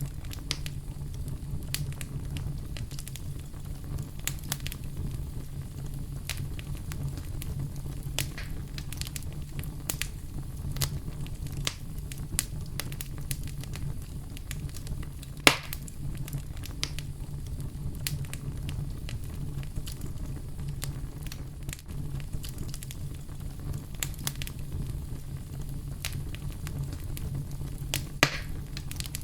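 Campfire crackling, with scattered sharp pops, two of them louder, about halfway and near the end, over a steady low rumble of brown noise.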